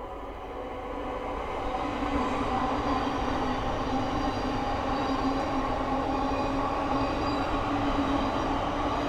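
Thameslink Class 700 electric multiple unit passing by, its sound building over the first two seconds and then holding steady, with a steady hum running through it.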